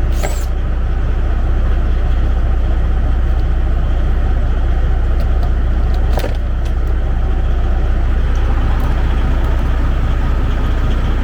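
Diesel engine of a 2004 Freightliner Columbia semi truck idling steadily, with a single short click about six seconds in.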